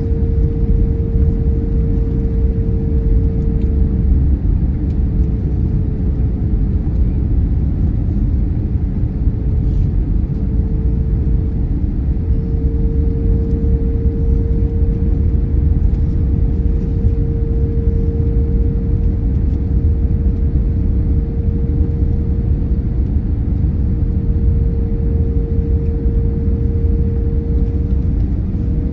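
Airliner noise during a landing approach: a steady low rumble with a constant mid-pitched hum that hardly changes.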